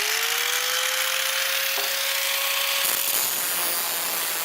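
A power tool cutting into the steel can of a Fram oil filter: a harsh, loud grinding noise. The motor's whine rises in pitch as it spins up, then holds steady and fades out about three seconds in while the cutting noise carries on.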